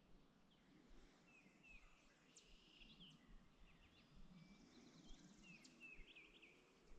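Faint songbird chirping: short, high, quickly bending notes repeated again and again over quiet outdoor background.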